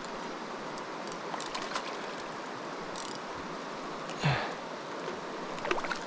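A stream's water rushing steadily, with a brief louder sound about four seconds in.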